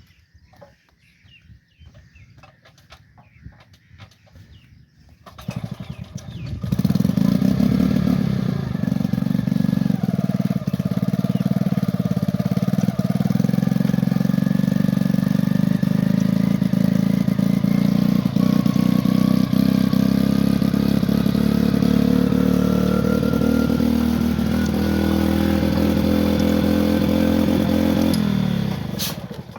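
Old stationary diesel engine running. It comes up loud about six seconds in, after a quieter stretch of faint knocks, runs steadily at one speed, and dies away near the end.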